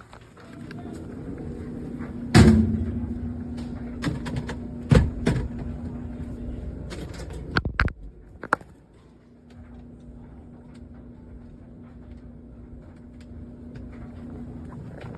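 Cordless stick vacuum motor running as a steady hum, with several knocks and clunks. The hum stops for a couple of seconds after a cluster of clicks and then comes back more quietly.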